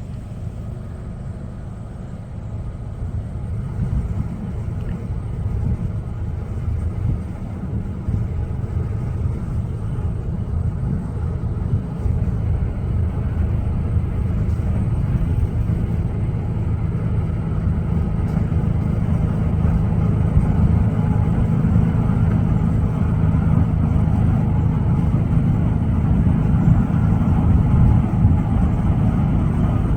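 GE diesel-electric locomotives at the head of a loaded coal train approaching: a steady low engine rumble that grows louder throughout.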